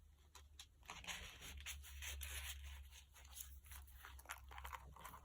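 Faint paper rustling and sliding with small clicks, strongest from about one to three seconds in: the paper pages and pocket of a handmade mini journal being handled.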